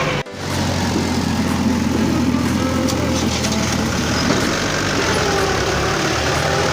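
Mahindra tractor's diesel engine running steadily, cut off for an instant just after the start.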